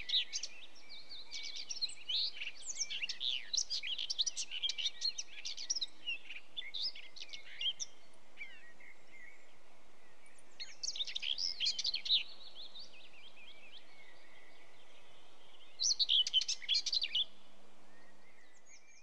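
Songbirds chirping and twittering in quick high calls, busy for the first eight seconds or so, then in two short bursts about eleven and sixteen seconds in, over a steady hiss. It fades out at the very end.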